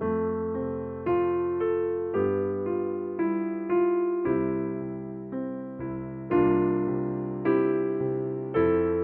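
Slow, gentle electric piano music: single struck notes, each fading away, about one to two a second over held low bass notes.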